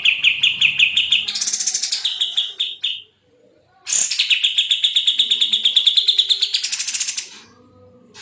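Kapas tembak, a bulbul, singing two long runs of rapid, evenly repeated high chirps of about eight notes a second, with a short pause between them.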